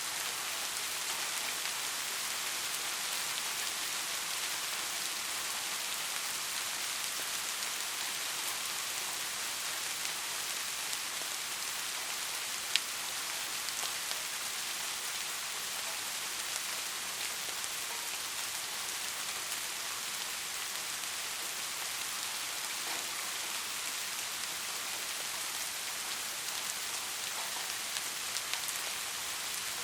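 Steady rain falling: an even hiss with scattered drop ticks, and one sharper drop about halfway through.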